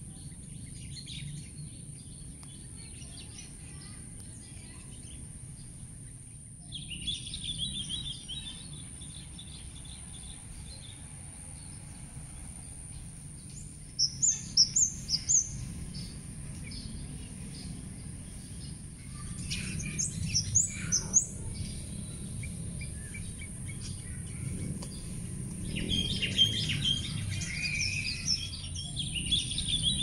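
Garden birds chirping and singing: a short trill about seven seconds in, a quick run of loud chirps near the middle, more sharp chirps a few seconds later and a longer burst of song near the end. Underneath run a steady low rumble and a constant high hiss.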